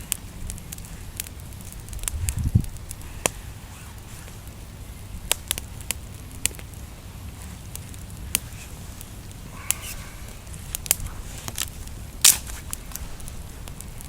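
Young campfire of natural kindling crackling, with sharp irregular pops and snaps; the loudest snap comes near the end. A brief low thud comes a couple of seconds in.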